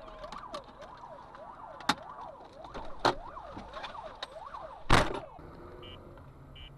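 An emergency-vehicle siren wails, its pitch rising and falling about twice a second. Three sharp knocks cut through it, the loudest about five seconds in. The siren then stops and short high beeps repeat about every 0.8 seconds.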